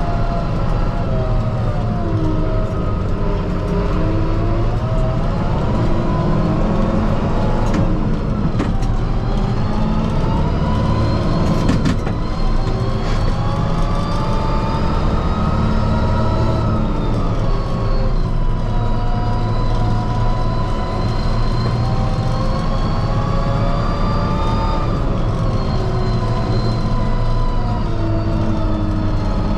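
Kubota M5-091 tractor's four-cylinder diesel engine running under load, heard inside the cab, its pitch rising and falling as it works into snow piles in high range. A couple of sharp knocks come about 8 and 12 seconds in.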